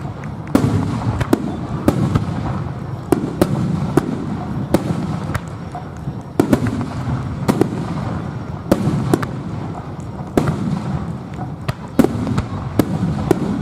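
Aerial fireworks bursting in rapid, irregular succession: a string of sharp bangs, at times several a second, over a continuous low rumble of overlapping explosions, heard close to the launch site.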